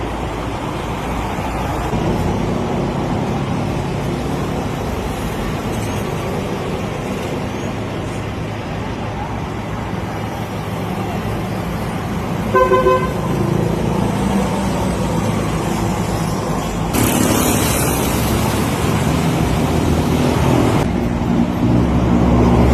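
Road traffic running steadily, with one short car horn toot about halfway through and a louder rush of passing traffic over the last few seconds.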